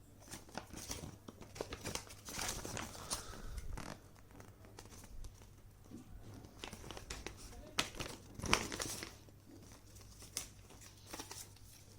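Pen-accessory packaging crinkling and rustling as it is handled, with scattered small clicks and taps; busiest in the first few seconds and again about eight seconds in.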